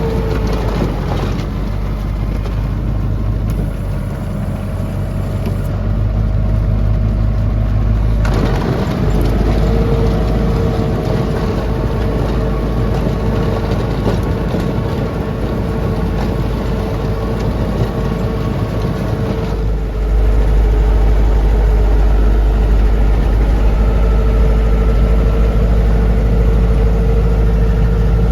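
Lovol tractor's diesel engine running steadily, with a steady whine above the engine note. It gets louder about two-thirds of the way through.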